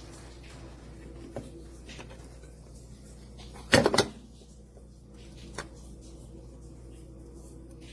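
A short clatter of two or three hard knocks about four seconds in, with a few lighter clicks before and after, over a steady low hum.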